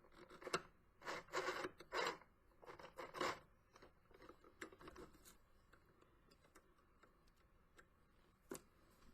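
Fabric and thread being tugged and handled at the mini sewing machine: irregular rustling and scratching, busiest in the first three seconds. Then a few faint ticks and one sharp click near the end.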